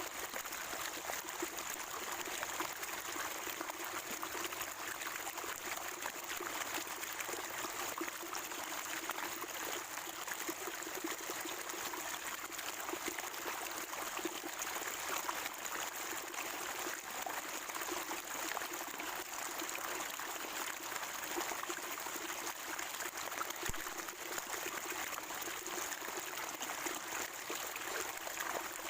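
Water of a natural spring trickling and gurgling, steady and unbroken.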